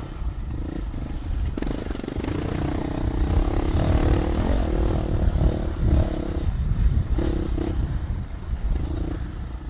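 Dual-sport motorcycle engine running as it is ridden along a dirt trail, its pitch rising and falling with the throttle. It is heard through a helmet microphone with heavy wind rumble.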